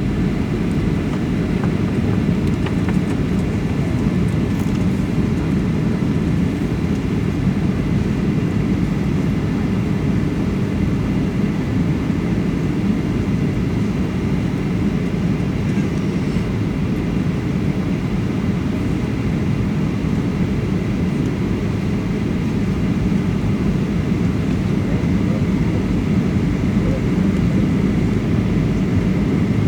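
Airliner cabin noise in flight: a steady, even low rumble of engines and airflow that does not change.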